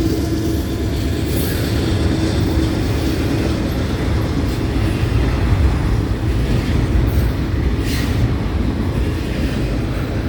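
Intermodal freight cars of a CN train rolling past close by: a steady rumble of steel wheels on the rail, with a few clicks over rail joints and a faint tone that fades out in the first few seconds.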